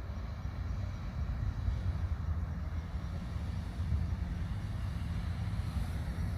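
A steady low rumble with a fainter hiss above it, rising a little in level during the first second, with no distinct events.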